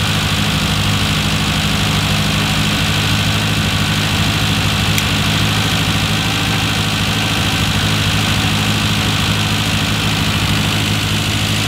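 Classic Mini's carburetted A-series four-cylinder engine running steadily at a fast idle of about 1500 RPM, held there for setting the ignition timing.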